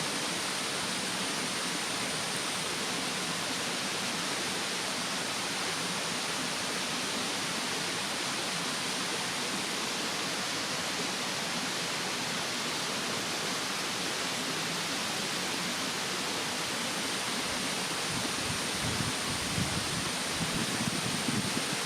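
Steady rushing of a mountain stream. Uneven low rumbles come and go near the end.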